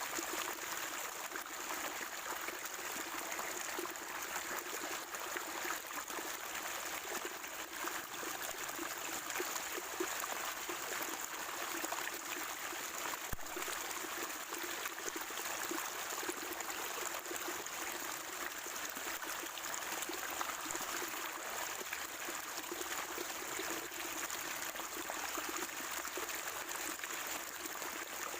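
Water at a natural spring trickling and gurgling steadily.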